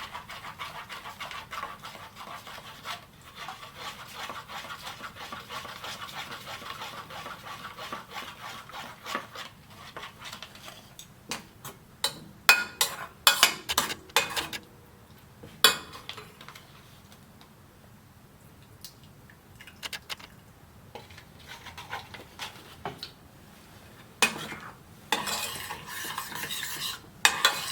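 A utensil clinking and knocking against a cooking pot, then stirring and scraping in the pot as butter melts for a sauce. A run of sharp knocks comes about halfway through, and steady stirring starts near the end.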